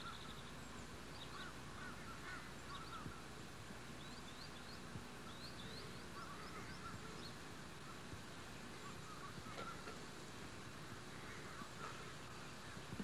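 Birds calling faintly, with many short chirps scattered throughout, over steady outdoor background noise and tape hiss.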